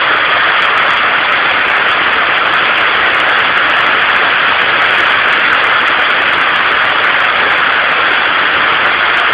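Heavy tropical rain falling, a loud steady hiss that does not let up.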